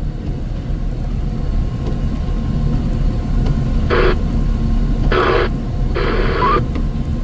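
Engine of a heavy snow-removal machine running steadily at a low rumble. Three short, narrow-band crackly bursts come over it about 4, 5 and 6 seconds in, like a two-way radio.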